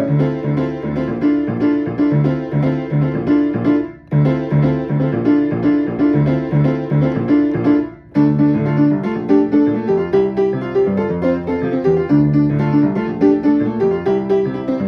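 Piano playing a fast, driving piece in a steady pattern of rapidly repeated notes, with two abrupt short breaks about four and eight seconds in.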